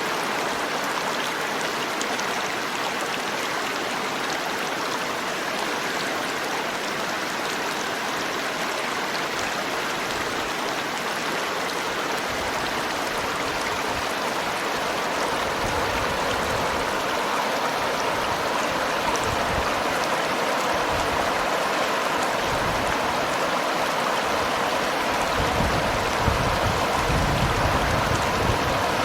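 Seomjin River water flowing in a steady, continuous rush.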